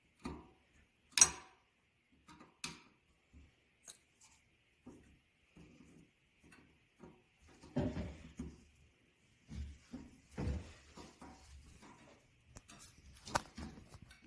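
Scattered clicks, knocks and scraping from hand work on a ceiling fan as its blade screws are worked loose, with a sharp click about a second in and a busier stretch of handling near the end. There is no steady motor sound.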